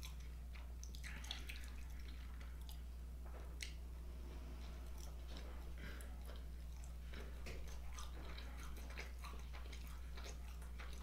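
A man chewing a bite of vegan sausage in a bun, close to the microphone: soft, irregular wet smacks and clicks of the mouth over a steady low hum.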